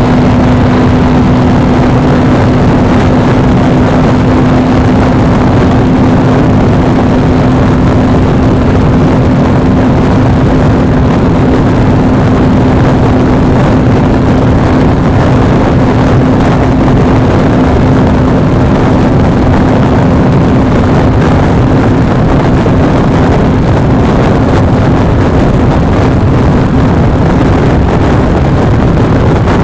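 Suzuki V-Strom 250's parallel-twin engine running at a steady, unchanging speed under a dense rush of wind and road noise, picked up by a cheap action camera's microphone on the moving bike.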